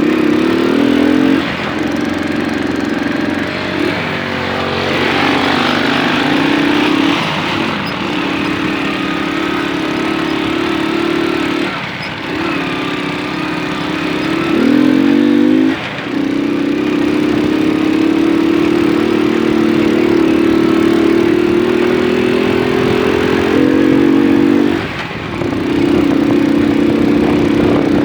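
Moped engine running under way, its revs climbing several times and falling back briefly in between.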